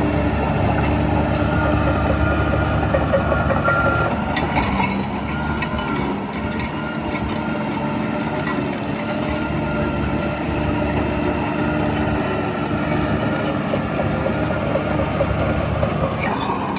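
Heavy diesel engine of earthmoving equipment running steadily, with a few light clanks about four to five seconds in and again near the end.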